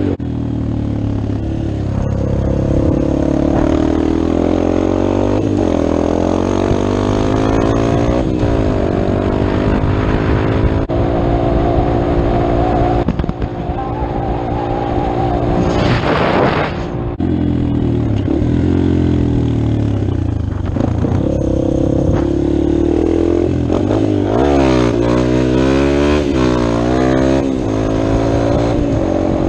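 Dirt bike engine revving up and down as it is ridden, pitch climbing and dropping through the gears, with a steadier stretch in the middle. A loud rush of noise lasts about a second, about halfway through.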